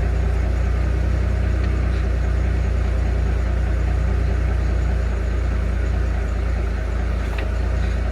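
A loud, steady, low mechanical drone, like an engine or machine running at a constant speed.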